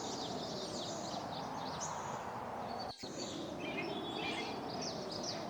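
Outdoor nature ambience: a steady background hum with many small birds chirping. It drops out for an instant about three seconds in and then carries on.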